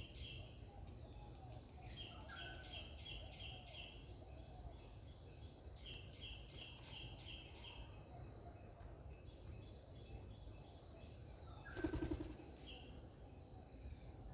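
Faint outdoor animal ambience: phrases of five or six quick, evenly spaced chirps repeat every few seconds over a steady high insect drone. A short, louder thump comes near the end.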